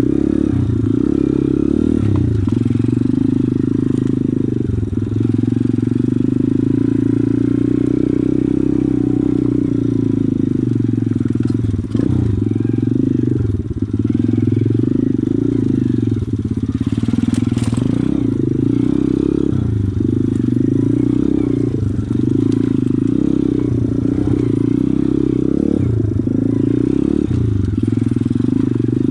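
Pit bike's small single-cylinder engine running under way, its revs rising and falling again and again as it is ridden, with a few sharp knocks along the way.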